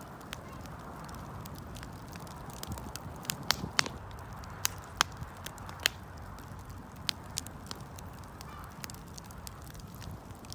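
Wood bonfire burning: a steady hiss of flames with sharp, irregular pops and crackles from the burning wood, a few close together about three to four seconds in.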